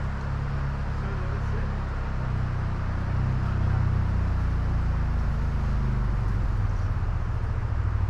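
Adventure motorcycle engine running while riding, a steady low hum whose pitch shifts up a few seconds in and drops back near the end.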